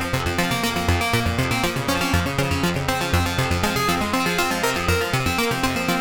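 Cherry Audio P10 software polysynth playing an arpeggiator preset: fast repeating synth notes over a pulsing bass, at about four pulses a second.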